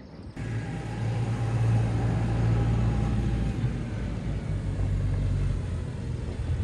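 Tractor engine running with a steady low drone. It cuts in abruptly at the start, is loudest in the first half and eases off a little towards the end.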